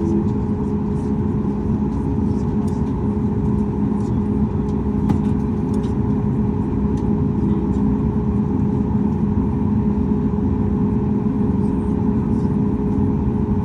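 Boeing 737 MAX 8's CFM LEAP-1B turbofan engine heard from inside the passenger cabin, running steadily during its start sequence: a constant low rumble with a steady hum on top.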